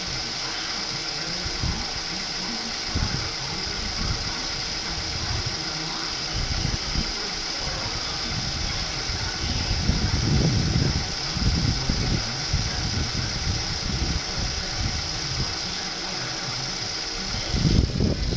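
2006 Mazda 6 engine running at a steady idle for a running test, with irregular low rumbling surges about ten seconds in and again near the end.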